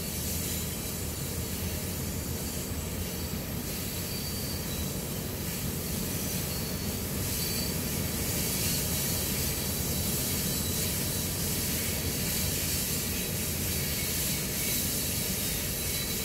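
Loaded coal hopper cars rolling past on the rails: a steady rumble of wheels on track with a hiss and a thin high-pitched wheel squeal, slowly growing louder.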